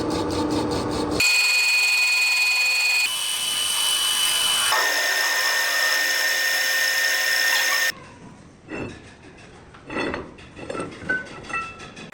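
Power tool working a metal shaft, a steady high-pitched whine whose pitch jumps at abrupt cuts several times. It stops about two thirds of the way through, leaving quieter scraping and knocks of metal being handled.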